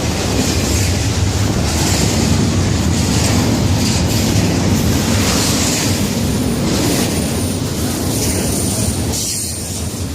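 Florida East Coast Railway freight cars rolling past at close range: a loud, steady rumble of steel wheels on the rails, with a faint thin squeal about two-thirds of the way through.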